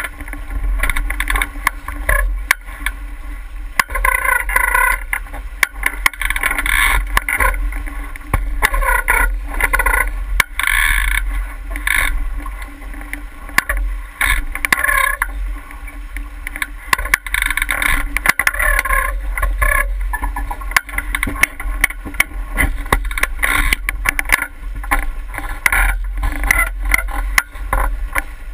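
Water washing and splashing along a 49er skiff's hull under sail, in uneven surges every second or two. A steady low rumble sits under it, with scattered short clicks.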